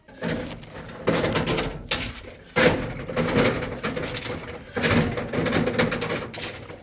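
A clattering noise broken by several sharp knocks or thuds, the loudest about two and a half seconds in.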